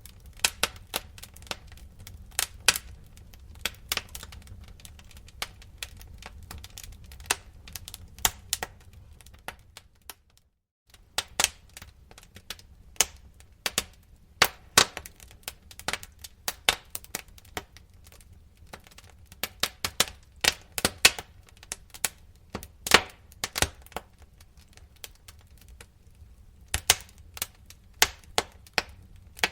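Wood fire crackling, with irregular sharp pops and snaps over a low steady rumble. The sound cuts out completely for a split second about ten seconds in, then the crackling resumes.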